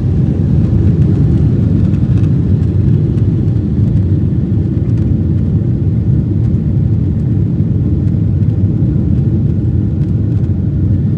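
Steady cabin rumble inside a Boeing 777 airliner in flight, a deep even roar of engine and airflow noise with no change.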